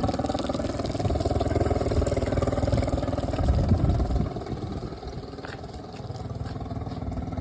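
Mercury 40 HP four-stroke EFI outboard engine idling, then its sound drops sharply about four seconds in as the engine is switched off.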